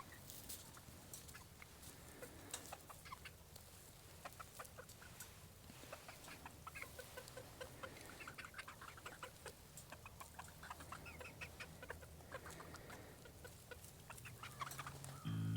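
Chickens clucking faintly, with scattered light clicks.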